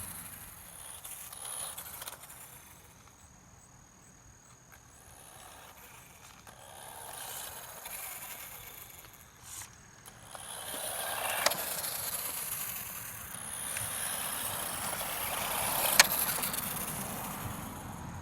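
Radio-controlled road racing car running, its high-pitched motor and tyre noise swelling and fading as it drives near and away. Two sharp clicks stand out in the second half.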